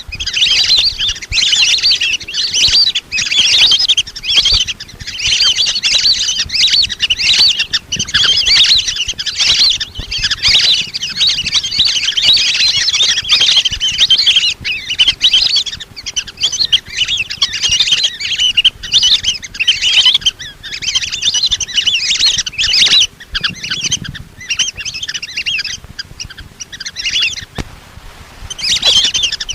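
A flock of lesser whistling ducks calling: a dense, unbroken chatter of shrill whistled chirps, played as a lure call to draw the birds in. The calling thins out about three quarters of the way through and picks up again near the end.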